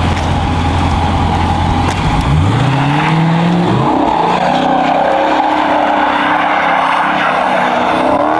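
Dodge Hellcat's supercharged 6.2-litre V8 rumbling low, then revving hard about two seconds in and held at high revs, with a rushing noise from the tyres spinning in a burnout.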